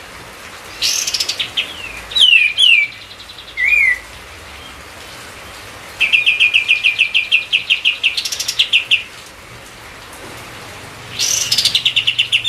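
Kapas tembak songbird singing hard in bursts: fast runs of sharp repeated chirps, short down-slurred whistles and buzzy chatter, with pauses between phrases. This is the excited 'emosi' song that keepers play to provoke other birds into singing.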